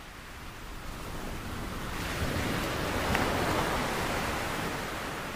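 A recorded wash of ocean surf: a soft, even rush that swells up to a peak about halfway through and then fades back down.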